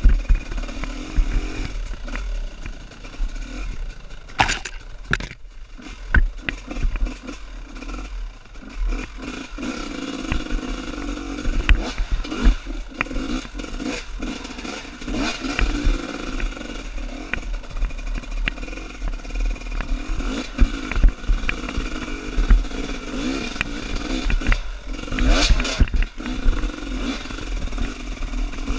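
Trail motorcycle engine running and revving up and down while riding a slippery dirt trail, with frequent knocks and clatter.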